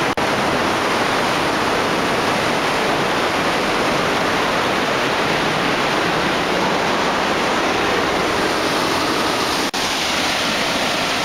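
Large waterfall: heavy falling water making a loud, steady noise. The sound cuts out for an instant twice, once right at the start and once near the end.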